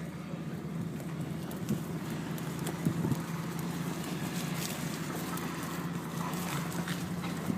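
Diesel engine of heavy earthmoving equipment running steadily with a low drone, with a few knocks and clunks, the strongest about three seconds in.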